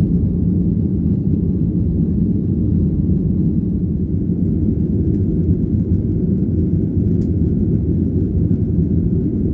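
Steady low rumble of a Boeing 737-800's engines and airflow, heard inside the cabin from a window seat.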